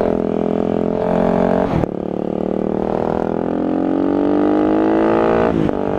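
Motorcycle engine accelerating through the gears. Its pitch rises steadily, with an upshift about two seconds in and another near the end, over low wind rumble.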